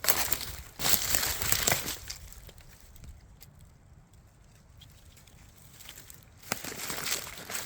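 Dry forest litter rustling and crunching underfoot, in a burst lasting about two seconds at the start and another over the last second or so, with a quieter stretch between.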